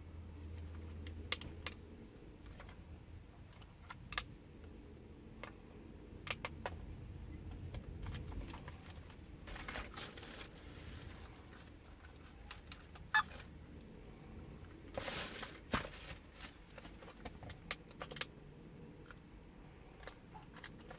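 Scattered light clicks and taps of small hard plastic parts being handled, from working on a mini radio-control toy tank, with a few brief rustles; the sharpest click comes a little past the middle.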